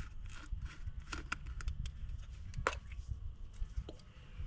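A plastic quart bottle of motor oil being handled and opened: a string of small clicks and crackles, with one sharper click a little past the middle, over a low rumble.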